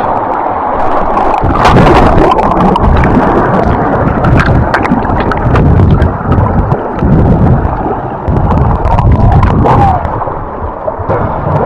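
Fast, high river water rushing and splashing close to the microphone, with a few sharp knocks and splashes scattered through it.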